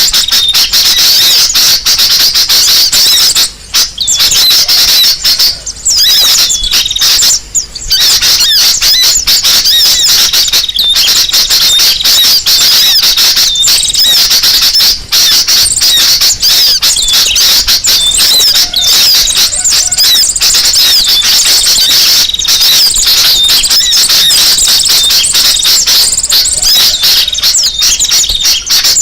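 Dense, loud chorus of many small songbirds chirping and twittering at once with rapid high notes, a bird-lure recording made to draw wild birds in. Three short gaps break it in the first eight seconds.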